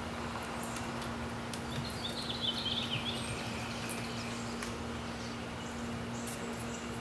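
A bird chirping briefly, a quick cluster of high chirps about two to three seconds in, over steady outdoor background noise with a low, even hum.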